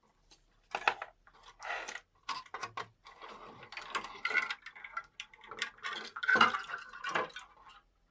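Irregular clinking, knocking and scraping of small hard parts being handled, with several sharp clicks; loudest a little past six seconds in.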